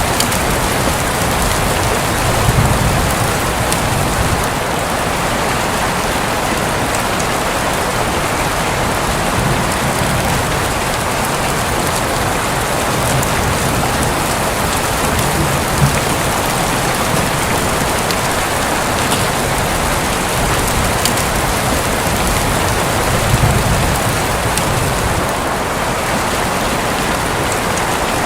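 Steady rain falling on a roof, with low rumbles of distant thunder swelling up a few times.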